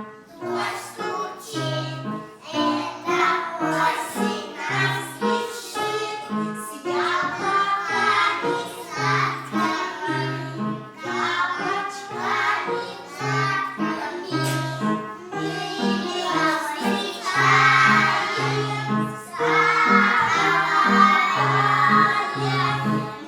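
A group of young children singing a children's song together over an instrumental accompaniment with a steady, regular bass line.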